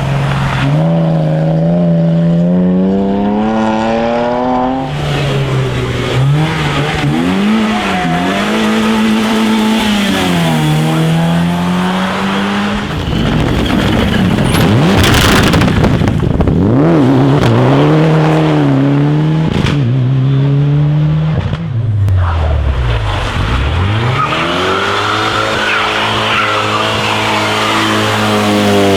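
Rally car engines revving hard, the pitch climbing and dropping as the drivers shift through the gears at speed. There is a loud rush of noise around the middle, and a car sweeps past near the end.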